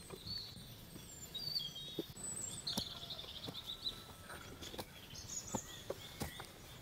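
Footsteps on a dirt forest trail littered with dry bamboo leaves, heard as irregular short steps and scuffs, with small birds chirping repeatedly in the background.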